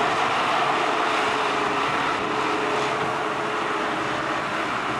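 Steady mechanical hum and rush, even throughout, with a faint underlying tone.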